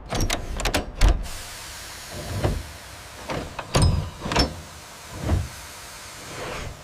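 Steam locomotive moving off under steam: a series of sharp exhaust chuffs over a steady hiss, several in quick succession in the first second, then more spaced out.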